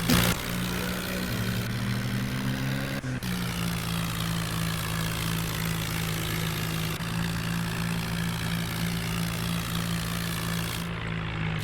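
Heavy machine's engine running steadily, its pitch rising slightly and then dropping back about three seconds in.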